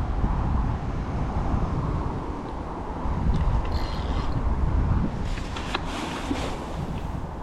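Fishing reel being wound while playing a hooked fish, over a steady low wind rumble on the microphone.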